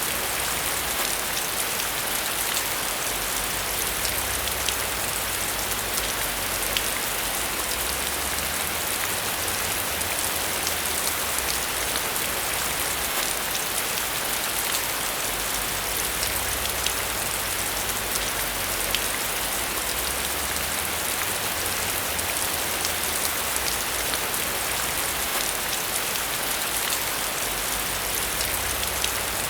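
Steady rain falling on a surface, a dense patter of fine drop ticks over a constant hiss with a soft low rumble underneath.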